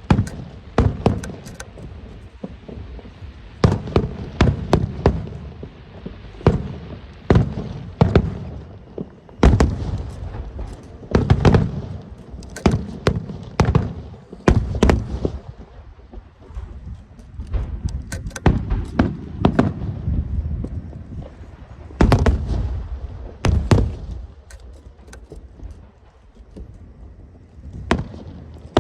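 Aerial fireworks going off: an irregular series of sharp bangs from bursting shells, several a second at times, with low rumbling booms between them. The bursts thin out for a few seconds near the end, then pick up again.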